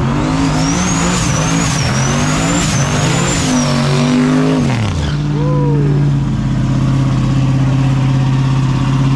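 A race truck's engine accelerating hard through the gears: the pitch climbs and drops back at each of three or four shifts, with a high whine rising and falling along with it. It lets off about four and a half seconds in, and a steady engine drone carries on after that.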